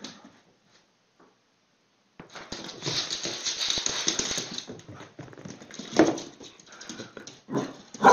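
A dog scuffling and making mouth noises at a lemon. It is quiet for the first two seconds, then a noisy stretch runs for about three seconds, with a short sharp sound about six seconds in and another near the end.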